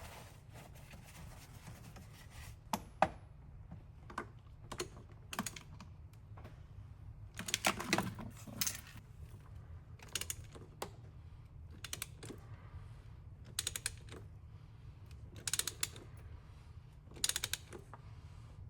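Socket ratchet wrench clicking in short bursts of a few clicks, repeated every one to two seconds, as a tight fitting on the car is worked loose.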